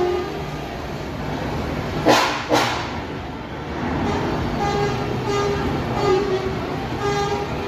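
Truck horns sounding a series of short toots over steady engine and traffic rumble. Two short, loud bursts of hiss come about two seconds in.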